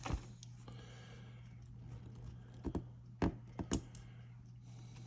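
A few light clicks and taps from small trigger parts and pins being handled on a workbench, with a pair just under three seconds in and a quick cluster shortly after, over a steady low hum.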